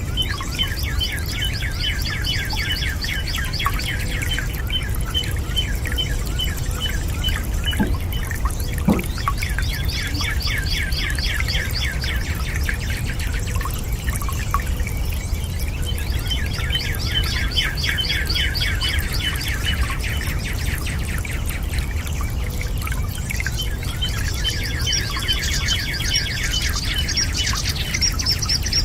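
Birds singing in long phrases of rapid trilled notes, four phrases with short pauses between them, over a steady rush of running water.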